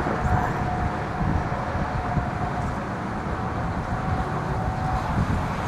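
Wind buffeting the microphone: a steady, gusty low rumble with a rushing haze over it. A faint steady hum rides on top and stops about five seconds in.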